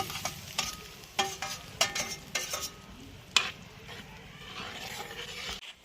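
A spatula clinking and scraping against the pan as chital fish dumplings are stirred in a simmering, sizzling masala gravy. There is a quick run of clinks, some with a brief ring, through the first three seconds or so, then it goes quieter.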